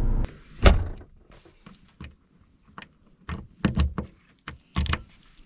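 Insects droning in a steady high thin tone, with scattered sharp knocks and clicks, the loudest one just under a second in.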